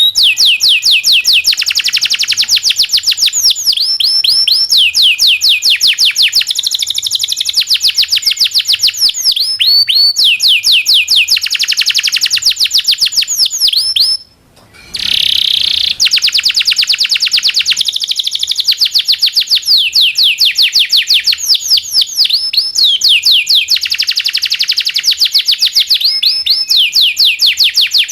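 Domestic canary singing long, fast rolling trills: runs of rapidly repeated high notes, each sweeping downward, changing from one run to the next. The song breaks off briefly a little past halfway, then carries on.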